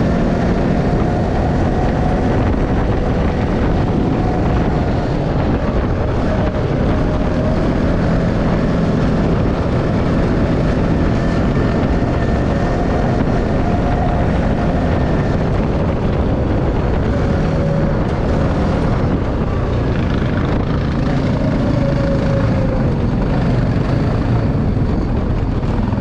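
Motocross bike engine running while riding, its pitch rising and falling gently with the throttle, with wind noise.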